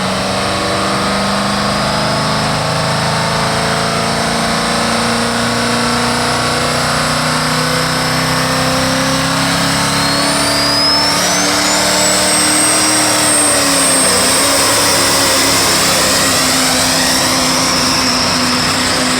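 Semi truck's diesel engine running hard under heavy load as it drags a pulling sled. A high whine rises about halfway through and then holds steady.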